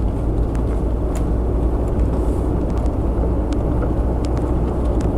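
Steady low rumble of a car driving, engine and tyre noise heard from inside the cabin, with a few faint ticks and rattles.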